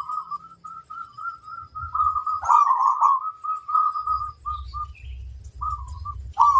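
Zebra dove (perkutut) cooing: a run of short, rapid notes at one steady pitch, breaking into denser bursts of notes twice. Faint chirps of other small birds sound above it, and a low rumble comes in from about four seconds in.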